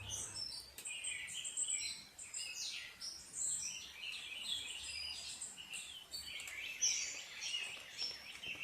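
Several birds chirping and singing at once: many short, overlapping chirps and trills, high-pitched, with no pause.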